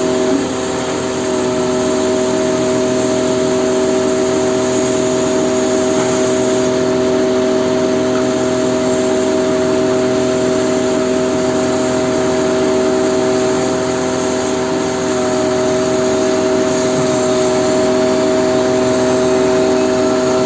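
Crane truck's engine running at a steady speed, with a constant whine of several steady pitches over the engine noise.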